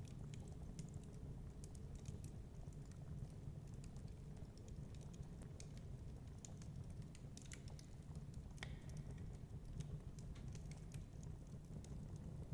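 Wood fire crackling with small, irregular pops over a steady low rumble of storm wind; one sharper pop comes about two-thirds of the way through.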